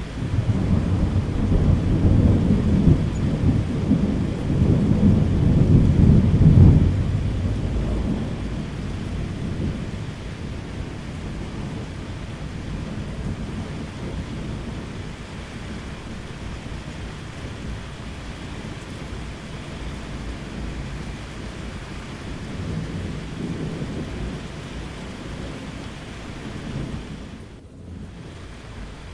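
Thunder rumbling over steady rain: a long low rumble swells up at the start, peaks about six to seven seconds in and dies away, and a fainter rumble rolls through later, all over a constant hiss of rainfall. Near the end the sound dips out for a moment.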